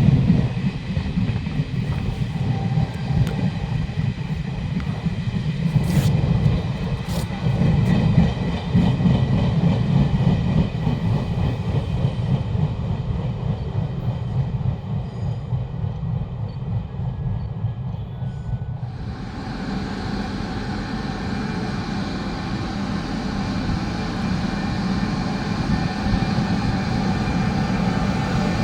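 Train running on the rails with a steady low rumble, a couple of sharp clicks about six and seven seconds in. About two-thirds of the way through the sound abruptly becomes brighter and fuller.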